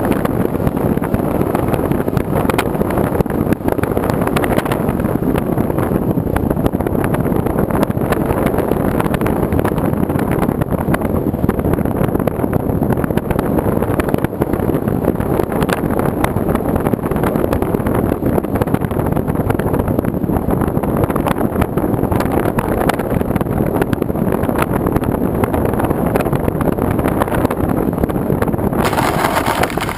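Loud, steady wind rush buffeting the microphone, cutting off abruptly at the very end.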